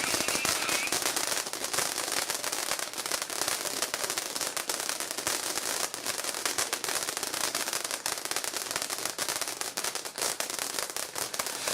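Lit firework crackling and hissing steadily, a dense rapid stream of small pops that starts suddenly just before and keeps an even level throughout.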